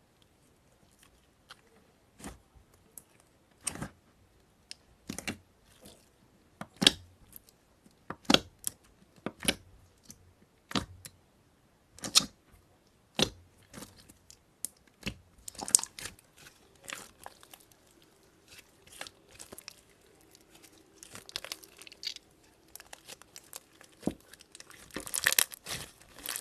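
Slime being pressed and stretched close to the microphone, giving sharp pops and crackles about every second or so, then quicker, denser crackling that is loudest near the end.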